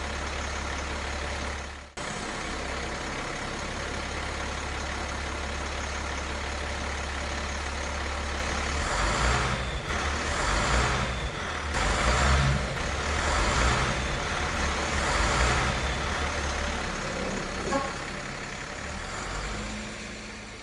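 Vehicle engine running with a steady low drone, briefly cut about two seconds in, then surging louder about every second and a half before fading away near the end.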